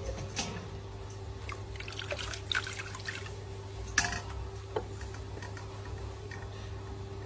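Bath water splashing and dripping lightly as a baby monkey is bathed, with a few sharper splashes about two and a half and four seconds in, over a steady low hum.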